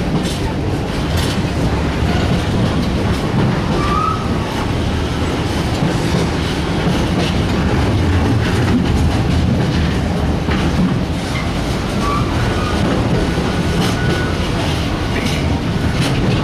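Container freight train's wagons rolling past close by: a steady rumble of wheels on rail with clickety-clack over the rail joints, and a few brief high squeals from the wheels.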